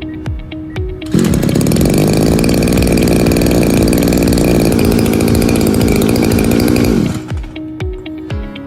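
Background music with a steady beat, cut into about a second in by a 26cc two-stroke brush cutter engine running at speed for about six seconds, much louder than the music; the engine stops near the end and the music carries on.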